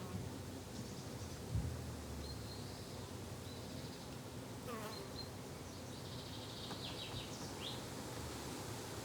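Flying insects buzzing steadily in a summer garden, with short high chirps a couple of seconds in and again in the second half, and one low thump about one and a half seconds in.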